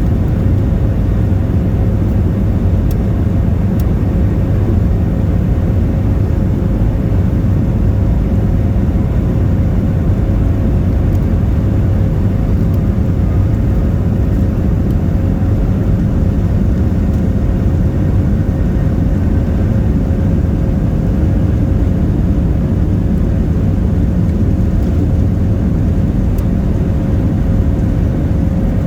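Steady, loud drone of a Boeing 737-700's CFM56-7 jet engines and airflow heard inside the passenger cabin, with a thin steady hum running through it.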